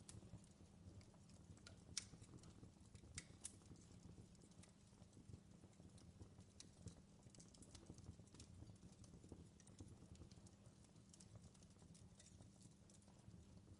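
Campfire crackling: a faint, irregular stream of small sharp pops and snaps over a low steady rumble, with a couple of louder pops about two and three and a half seconds in.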